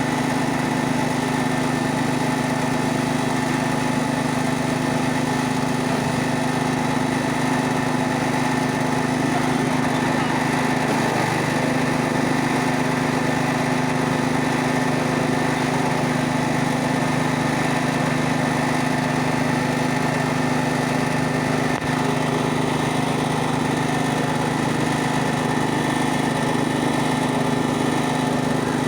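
Wood chipper-shredder's engine running steadily at constant speed, with one brief click a little past the middle.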